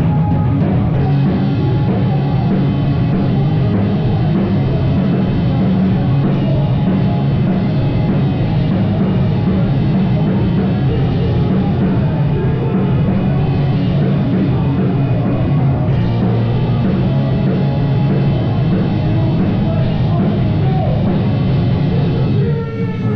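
A live rock band playing loud, with a drum kit driving the music and a heavy low end. The sound briefly drops near the end before the band comes back in.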